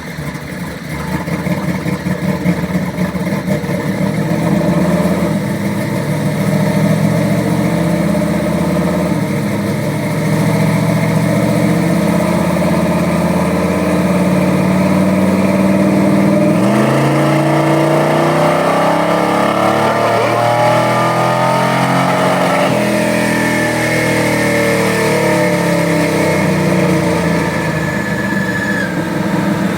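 Truck engine making a full-throttle pull on a chassis dyno: the revs climb in stages, peak a little past twenty seconds in, then fall away as the throttle is released.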